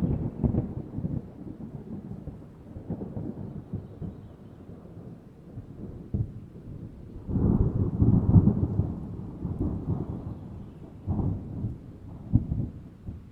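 Thunder rumbling over rain during a tropical thunderstorm. The rumbles come in rolling swells, and the loudest begins about seven seconds in.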